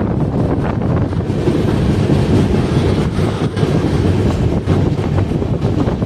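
Passenger train running on the rails, a loud steady rumble with short irregular clatters, mixed with wind buffeting the microphone.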